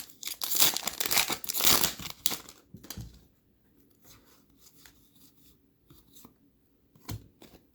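Plastic wrapper of an NBA Hoops trading-card pack being torn open and crinkled for about three seconds. A few faint light clicks follow, with one sharper click near the end.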